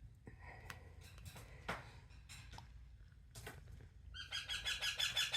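A parrot calling in a rapid run of repeated high notes, about eight a second, starting about four seconds in, after a few faint taps and clicks.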